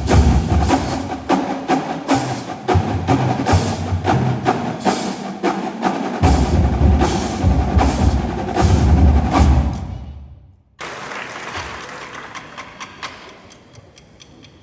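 Marching drumline of snare drums, tenor drums and bass drums playing a rudimental exercise, with dense, rapid strokes and heavy low bass-drum hits. The playing dies away about ten seconds in, and after a short break only quieter, sparser taps follow.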